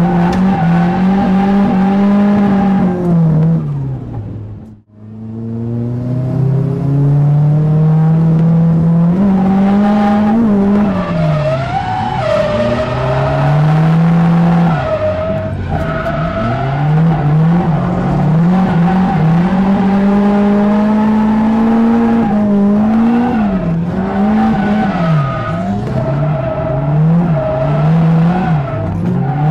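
Nissan 180SX (S13) engine heard from inside the cabin while drifting, the revs rising and falling again and again as the throttle is worked through the corners, with tyres squealing. The revs dip and climb in quick succession near the end. The sound cuts out almost completely for a moment about five seconds in.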